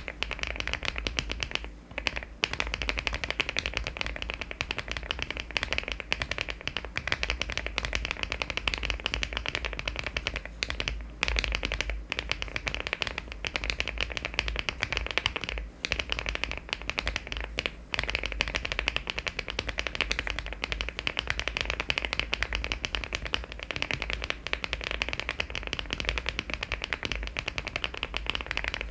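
Fast continuous typing on a LEOBOG Hi75 aluminium mechanical keyboard fitted with HMX switches and Cherry-profile keycaps: a dense run of keystrokes, broken by short pauses about two, eleven, fifteen and eighteen seconds in.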